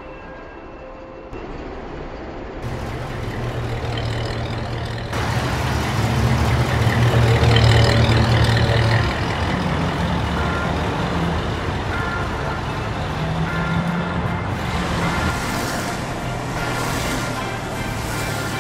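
A motor vehicle engine running with a steady low rumble that builds up over the first few seconds and is loudest about six to nine seconds in.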